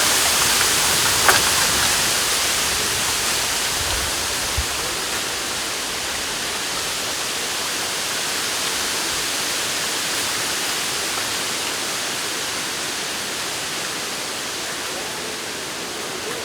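Wind rustling through the leaves of a bamboo forest: a steady hiss that eases slowly, with a brief click about a second in.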